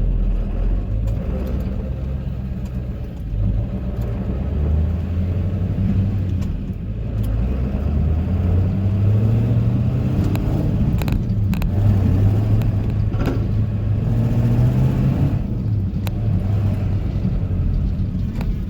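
Ford F-350's 7.3-litre Power Stroke V8 turbo-diesel running under load as the truck is driven, its pitch rising and falling with the throttle. A few short knocks come in the second half.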